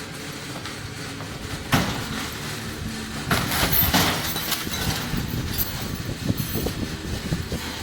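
Compact tractor running under a steady low rumble while debris clatters and crashes in a string of knocks and clanks, with the biggest crashes about two and four seconds in: a building being pulled down.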